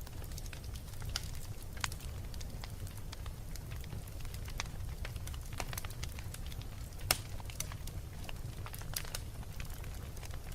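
Wood fire burning in a fireplace: irregular crackles and pops over a steady low rumble of the flames, with one sharper pop about seven seconds in.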